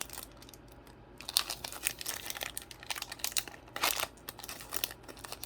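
Foil Pokémon booster pack wrapper crinkling as it is handled, in short irregular rustles that start about a second in, with the loudest crackle near the end.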